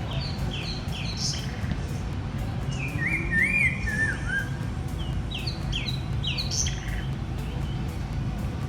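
Small birds chirping: clusters of short, high chirps that drop in pitch, repeated in quick runs throughout, over a steady low hum.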